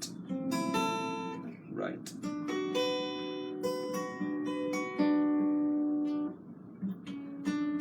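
Acoustic guitar being played by hand: ringing notes and chords that fade one into the next, pausing briefly near the end.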